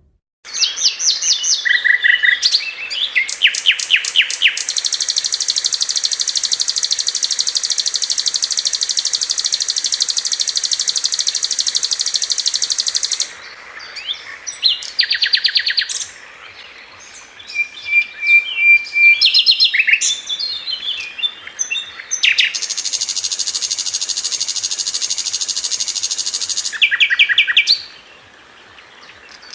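Songbird singing fast 'tembakan' phrases of the kind used as masteran song for competition birds. Short chirp series and quick ticking strings alternate with two long, high, rapid trills, the first lasting about eight seconds and the second about five seconds near the end.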